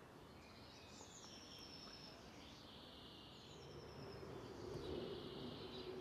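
Faint outdoor ambience with small birds chirping and trilling in the background; about halfway through, a low steady hum rises underneath.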